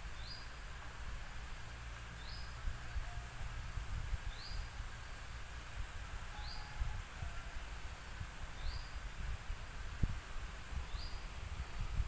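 A bird repeating one short, high, rising note about every two seconds, over a low rumble of wind on the microphone.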